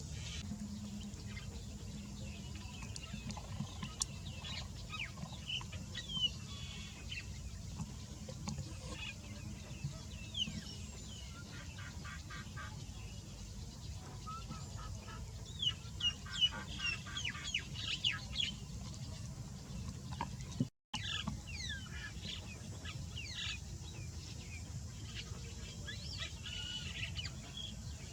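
Birds calling: many short, sharp chirps and stuttering call runs, busiest in the middle, over a steady low rumble. The sound cuts out completely for a moment about two-thirds of the way through.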